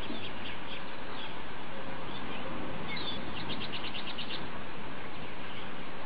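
Small birds chirping over a steady background hiss, with a quick run of about eight short notes a little past the middle.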